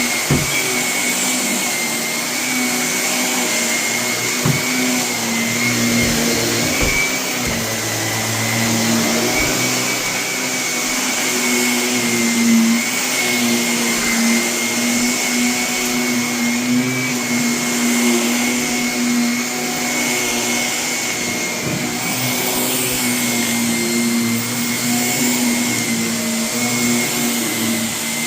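Vacuum cleaner running steadily over a carpet littered with renovation debris, its motor giving a constant high whine over a low hum, with occasional clicks of grit being sucked up.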